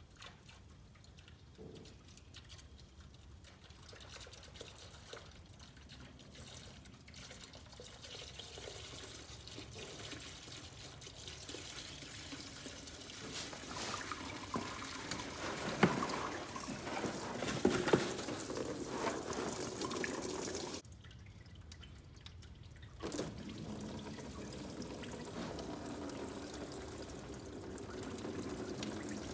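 Diesel flushing fuel pouring from the drain hole of a Farmall 300 tractor's rear end into a container: a steady splashing stream that grows louder over the first half, breaks off suddenly for a couple of seconds about three quarters of the way through, then carries on.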